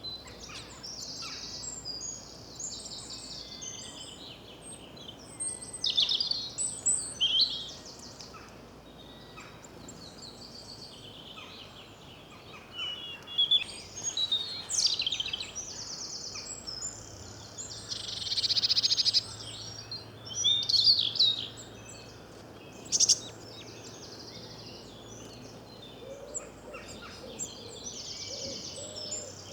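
Several small songbirds singing and calling: short high chirps and trills that come in loud bouts, over quieter background birdsong.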